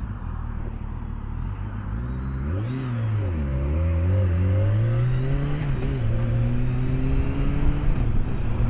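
BMW K1200S inline-four engine pulling away and accelerating: the revs rise and drop about three seconds in at a gear change, then climb steadily, heard through the rider's helmet microphone.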